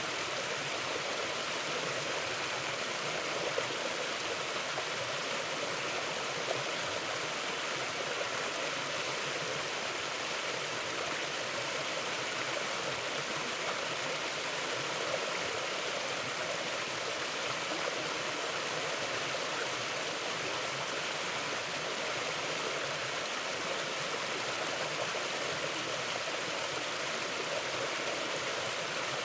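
Mountain river flowing over rocks: a steady, even rush of water with small splashes now and then.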